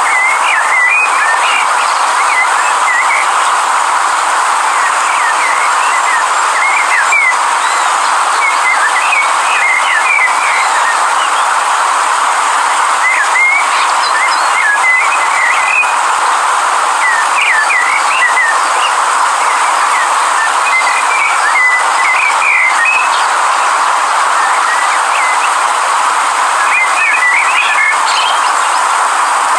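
River water flowing steadily, with small birds chirping in short runs every few seconds over it.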